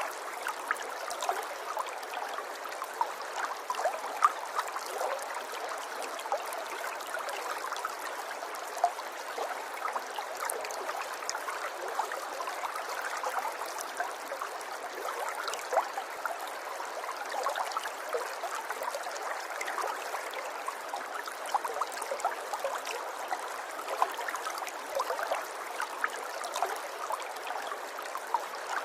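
A shallow river or stream flowing and trickling over stones, a steady babble full of small splashes and gurgles, with little deep rumble.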